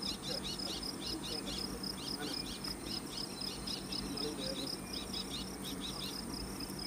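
Forest insects calling: a cricket-like chirp repeating about four times a second over a steady high-pitched drone, with quicker high chirps in between.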